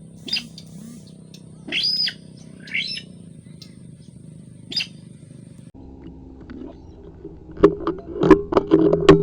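Short, sharp rising bird calls, about four of them in the first five seconds, over a faint steady hum. Near the end, a quick run of loud clicks and knocks.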